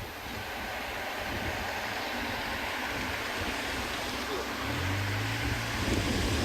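A diesel train approaching and passing: a rushing noise builds steadily, and a low engine hum comes in about five seconds in.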